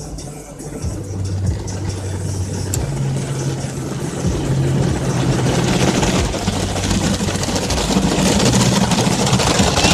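Automatic car wash running around the car, heard from inside the cabin: a steady low machine hum that shifts pitch now and then, with a hiss of water spray that grows louder over the second half.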